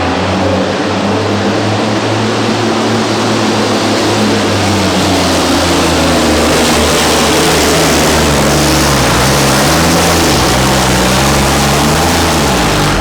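Big diesel truck engine running hard under load on a pull, a steady heavy drone with a loud rushing exhaust noise over it. Its pitch wavers and dips in the last few seconds, and it cuts off suddenly at the end.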